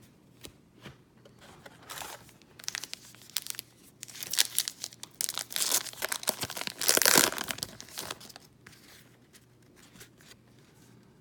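A foil trading-card pack wrapper being torn open and crinkled in the hands, with the loudest tearing and crackling in the middle, then quieter handling near the end.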